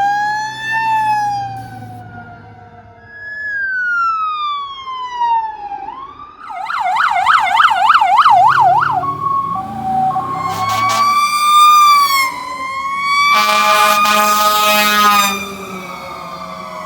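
Electronic sirens of responding emergency vehicles, a fire chief's SUV and a sheriff's patrol car, going by: slow rising and falling wails, a fast warbling yelp in the middle, then wails again. Near the end a harsh steady blaring tone sounds for about two seconds over them.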